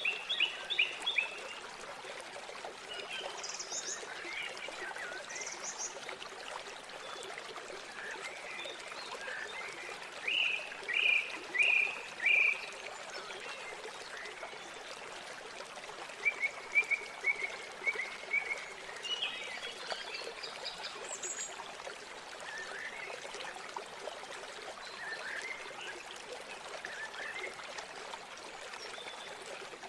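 Several songbirds calling over the steady rush of flowing river water. The calls include short chirps, a run of four loud downward notes about ten seconds in, and a quick series of repeated notes around the middle.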